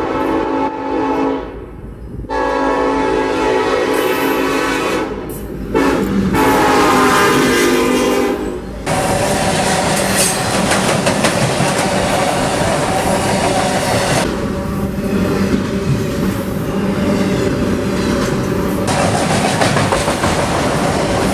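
A freight train's locomotive air horn sounds three long blasts over the first nine seconds, the first starting just before. Then the train rumbles and clatters steadily as its freight cars roll across a steel truss bridge.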